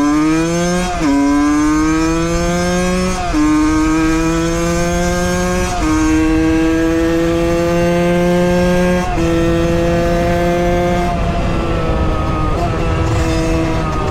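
Suzuki Valenti 50's liquid-cooled 50cc two-stroke engine accelerating hard through the gears. The pitch rises in each gear and drops at four upshifts, about one, three, six and nine seconds in, then holds nearly steady at speed.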